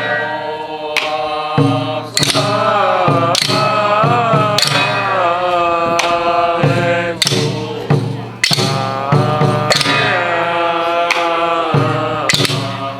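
Folk ritual music for a Taiwanese Jiao rite: a melody with a wavering, bending pitch over a steady low drone, punctuated by sharp percussion strikes every second or two.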